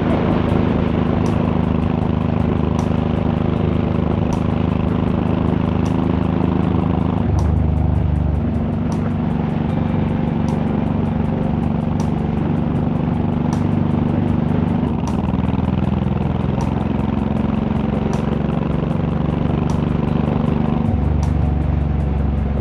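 Honda VTX1800's big V-twin running steadily under way at cruising speed, its pitch stepping to a new steady note a few times.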